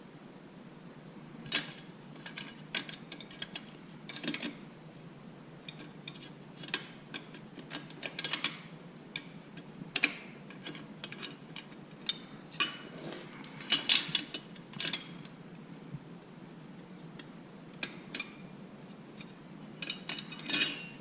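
Hand tools and small metal parts being handled during motorcycle exhaust work: irregular clicks, clinks and short rattling bursts, some of them ratchet-like.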